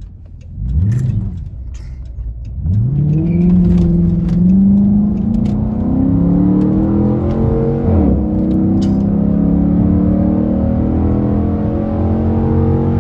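Dodge Charger R/T's 5.7-litre Hemi V8 blipped once, then accelerating with the engine note climbing steadily in pitch, a brief dip about eight seconds in, then holding a steady pull.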